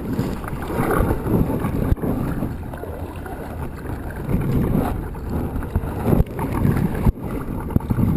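Wind buffeting the microphone on a kayak out on the water, a steady low rumble with a few sharp knocks.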